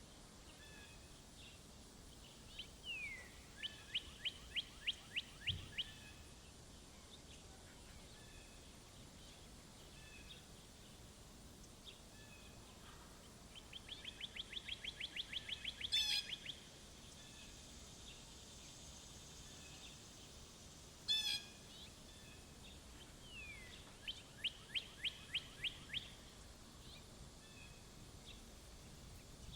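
Songbirds singing at a backyard feeder: three short trilled phrases of quick, evenly spaced notes, two of them opening with a slurred note, and two sharp single chips in between, over faint outdoor background noise.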